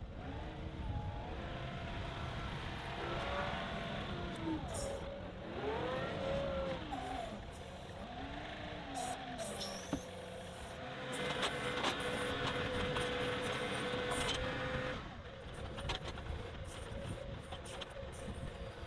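John Deere compact tractor's diesel engine working the backhoe hydraulics, its pitch repeatedly dipping and recovering under load. About ten seconds in it holds one steady strained note for several seconds, then eases off.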